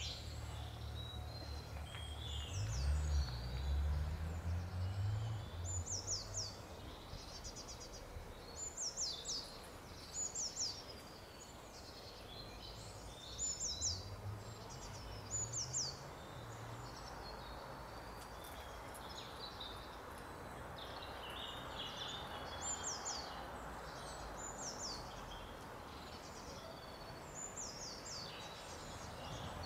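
Small birds chirping, short high descending calls repeated every second or two, over steady outdoor background noise. A few low rumbles, the loudest about three seconds in and again around thirteen to sixteen seconds in.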